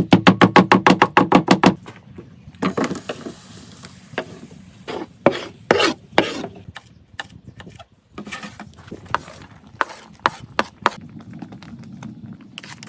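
Food-preparation knocks on wood: a quick run of even knocks, about eight a second, for under two seconds, then scattered knocks, scrapes and rubbing.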